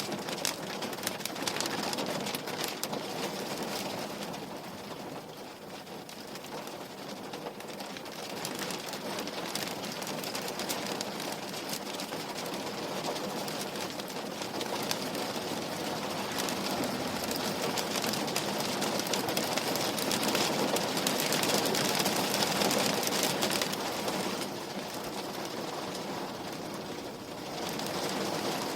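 Steady rain falling on a window, a dense patter of drops that eases off a little twice and swells again.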